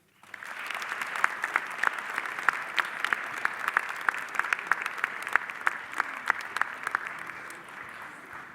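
Audience applauding, breaking out right away and fading out near the end.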